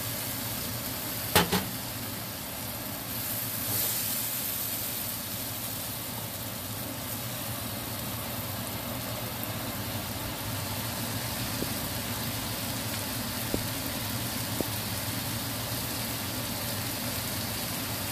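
Chicken pieces and chopped onion sizzling in a hot frying pan, a steady hiss over a low hum, with a sharp knock about a second and a half in.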